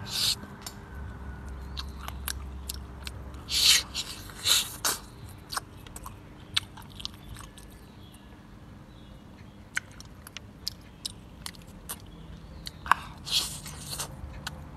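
A person eating roast chicken close to the microphone: chewing with many small wet clicks, and a few louder crunchy bites about four to five seconds in and again near the end.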